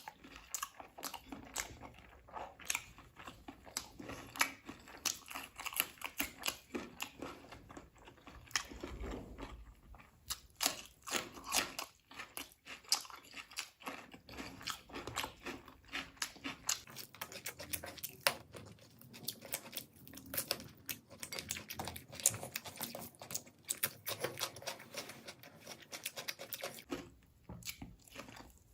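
Close-up eating sounds: chewing and biting, with many small crunches and wet mouth clicks.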